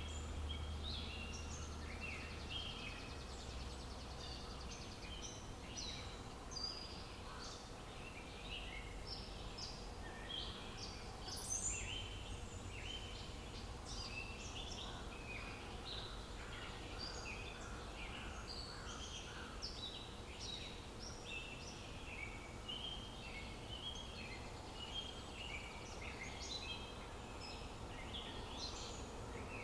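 Many birds chirping and singing together, short calls and trills overlapping without a break, over a faint steady low outdoor hum.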